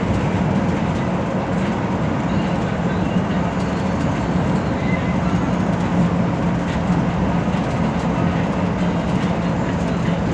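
Steady engine drone and road noise heard inside the cabin of a metropolitan express bus while it is driving, with a constant low hum.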